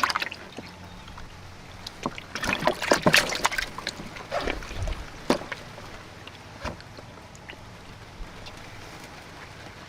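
Pond water splashing and sloshing as fish are caught by hand: a flurry of splashes a couple of seconds in, then a few single splashes, then only a low background.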